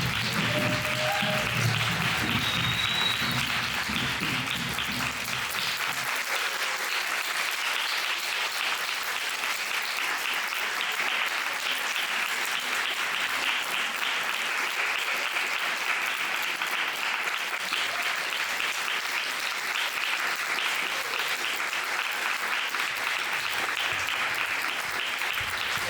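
Audience applauding steadily. Low music plays underneath for the first six seconds, then cuts off abruptly.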